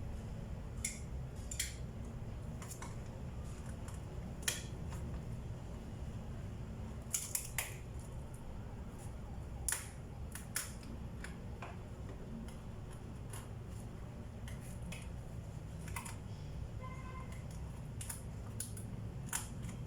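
Hand tools working on a plywood tabletop: scattered sharp clicks and light taps at irregular intervals over a steady low hum.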